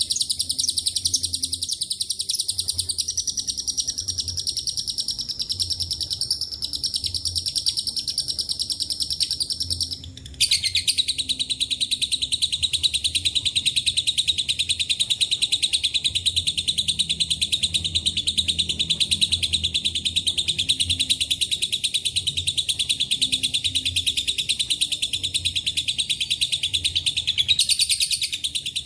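Lovebird in a long 'ngekek': a high, very rapid, unbroken chattering trill. It breaks off briefly about ten seconds in, then resumes and runs on without pause.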